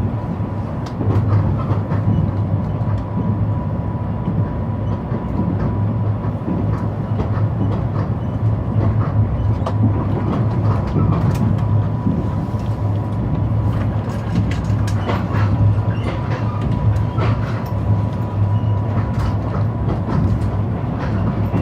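Mugunghwa passenger train running on the rails: a steady low rumble with wheels clicking irregularly over rail joints, and a faint steady high tone throughout.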